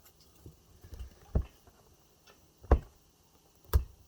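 Pliers clicking and snipping at the metal strips on e-bike battery cells: a few sharp clicks about a second apart.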